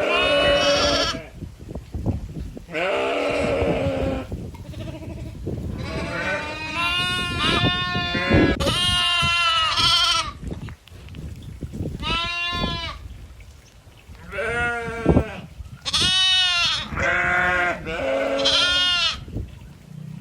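Goats bleating: a series of about eight or nine loud, quavering bleats, one after another with short gaps, some calls from more than one animal.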